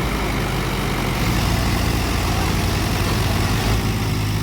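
Tractor engine running hard under heavy load as it strains up a steep slope, a steady low drone.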